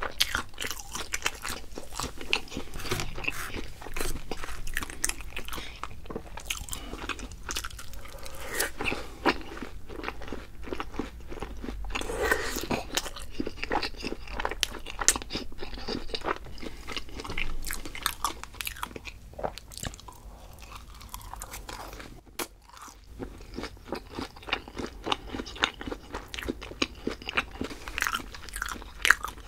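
Close-miked biting and chewing of crunchy fried food: dense, crackly crunches throughout, easing briefly about two-thirds of the way in.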